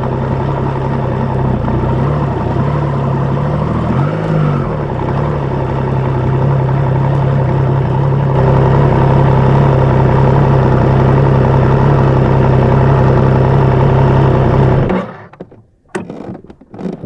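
Triumph Trident 660's three-cylinder engine, fitted with an Akrapovic exhaust, idling steadily with one short blip of the throttle about four seconds in. It is switched off near the end and stops abruptly, leaving a few clicks and knocks.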